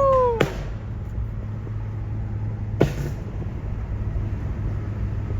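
Car engine and road noise as a steady low rumble, broken by sharp single exhaust pops about half a second in and again near three seconds in. A falling pitched call dies away in the first half-second.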